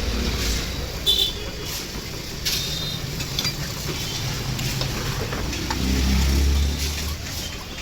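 Road traffic rumbling past, swelling as a vehicle goes by near the end, with a few metallic clinks of tools on metal, one about a second in.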